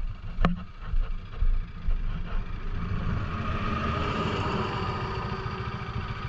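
Vehicle engine idling with a steady low throb, while another vehicle swells past in the middle. A single sharp click comes about half a second in.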